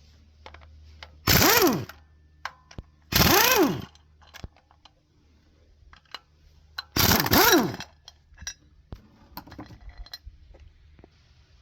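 Three short bursts of a hand-held power tool, each spinning up and back down within about half a second, as fasteners come off an engine being torn down. Light metallic clinks of parts and tools come between the bursts.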